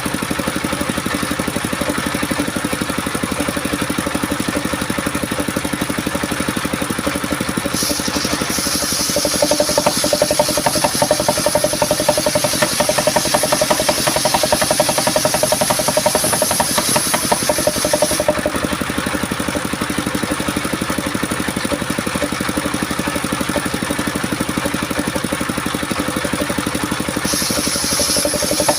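Engine-driven homemade circular saw (serkel) running steadily. From about eight seconds in to about eighteen seconds, and again near the end, a high hissing cut joins in as the blade goes through coconut-palm wood, which sounds crunchy as it saws.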